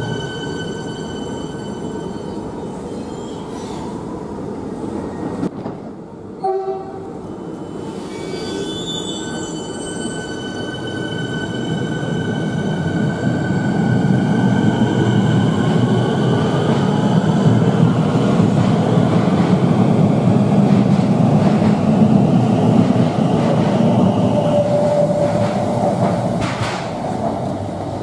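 Electric suburban train running along an underground station platform. There is a break about six seconds in; after it a motor whine rises in pitch as the train picks up speed, and wheel-on-rail rumble builds to its loudest as the carriages pass.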